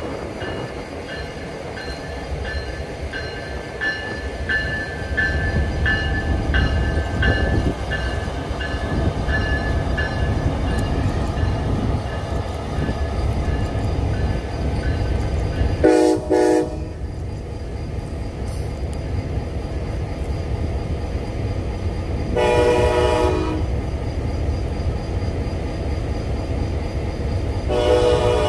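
Locomotive-hauled passenger train passing close by, its wheels rumbling steadily on the rails, with a high ringing that pulses about twice a second through the first half. The train's air horn sounds two short blasts about halfway through, a longer blast later, and another blast near the end.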